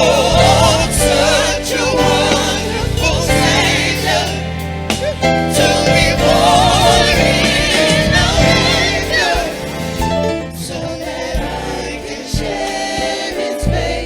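Gospel choir singing with vibrato over a steady instrumental accompaniment, playing a Christmas gospel song; the music thins out somewhat after about ten seconds.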